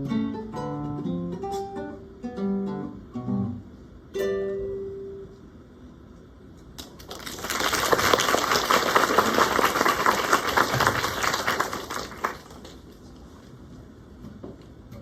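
Acoustic guitars pluck the closing notes of a piece, the last note ringing out about four seconds in. After a short pause an audience applauds for about five seconds.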